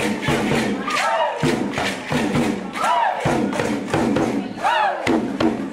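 Hand drums, including a djembe, beaten by a crowd in a fast, dense rhythm, with a group of voices shouting a call that rises and falls in pitch about every two seconds.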